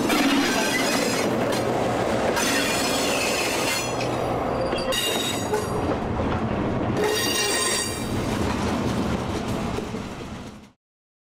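Freight train railcars rolling past, a steady heavy rumble with steel wheels squealing on the rails in several high ringing stretches. The sound cuts off abruptly near the end.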